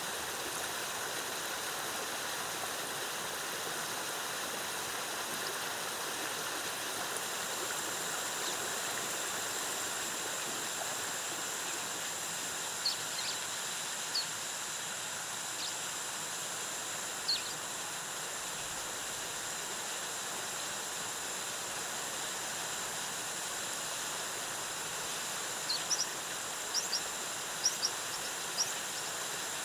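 Waterfall and stream water rushing steadily. A steady high insect-like drone joins about a quarter of the way in, and short high bird chirps come a few times near the middle and in a quick cluster near the end.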